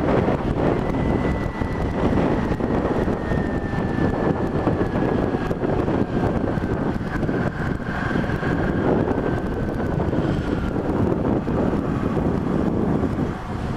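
Motorcycle on the move, with wind buffeting the microphone over the engine and road noise, and a faint high whine sliding slowly down in pitch.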